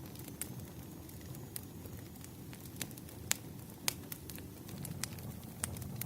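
Wood fire crackling: irregular sharp pops and snaps, a few louder than the rest, over a low steady rumble of burning logs.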